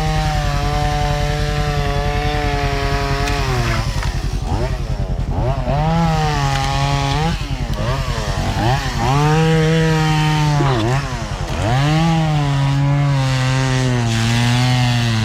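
Chainsaw cutting through a fallen tree. The engine holds a steady pitch at first, then from about four seconds in its pitch dips and climbs back several times as it bogs under the load of the cut and recovers.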